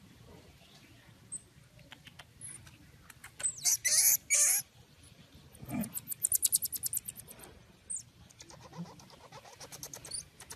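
Marmosets giving high-pitched chirping calls. A loud cluster of sharp calls comes about three and a half seconds in, then rapid trains of short clicking chirps around six seconds and again near the end.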